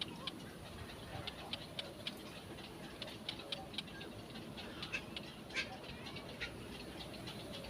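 Small birds chirping: a run of short, high chirps, several a second and irregularly spaced, over a faint low background rumble.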